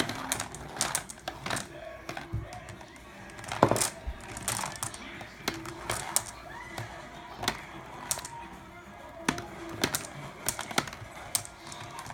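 Plastic game marbles of a Potion Explosion dispenser clicking and clacking against each other as they are picked out and roll down the tray, in irregular clicks with the loudest about three and a half seconds in.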